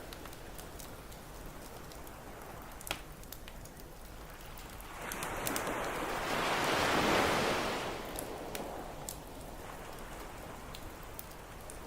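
Campfire crackling, with scattered sharp pops and snaps throughout. A single ocean wave swells in about five seconds in, peaks, and washes back out a few seconds later.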